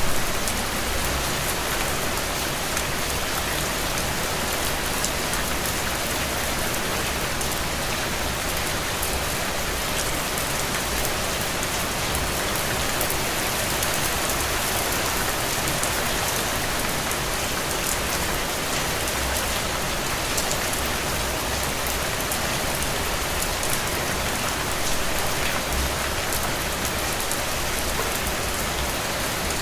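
Steady rain falling on a window pane, an even hiss dotted with fine drop patter.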